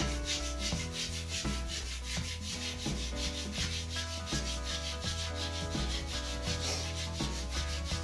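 Sandpaper rubbing a new wooden snooker cue shaft in rapid, even, repeated strokes, over background music.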